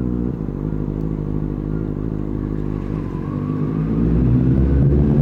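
Benelli 600i motorcycle's inline-four engine running at low road speed under the rider. It grows louder about four seconds in.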